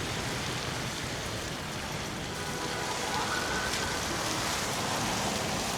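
Steady hiss of a bicycle ride on wet, snowy streets: tyres rolling through slush and wind on the microphone.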